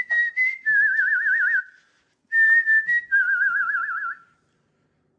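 Two whistled phrases, each a steady high note that drops into a fast warbling trill, the second starting about two seconds after the first.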